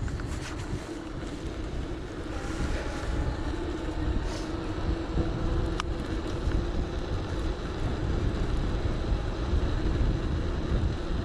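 Wind buffeting the action camera's microphone over the rumble of an electric bike riding along a road, with a steady faint hum throughout.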